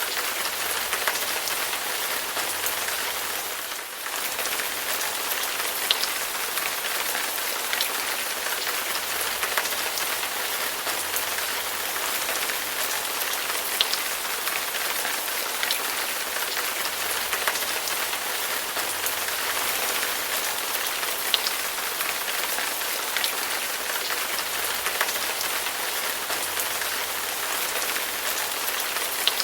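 Heavy rain falling steadily, an even hiss with scattered sharper drop hits; it briefly softens about four seconds in.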